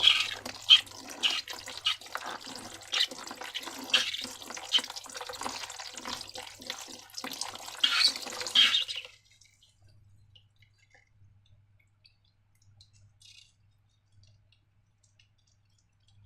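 Wet, sticky squelching, clicking and dripping of slime being squeezed and handled, lasting about nine seconds and then stopping.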